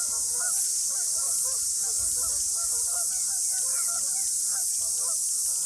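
A flock of waterfowl calling: many short honking calls overlapping without a break, over a steady high hiss.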